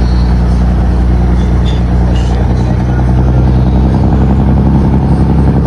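Scania 600 hp marine diesel engine running steadily, with a deep, even tone that shifts slightly about four seconds in.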